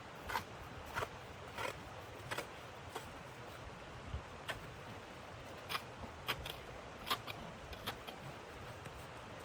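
A series of short, crisp scrapes or crunches over a steady hiss. For the first few seconds they come at an even pace of about one every two-thirds of a second, then they turn irregular.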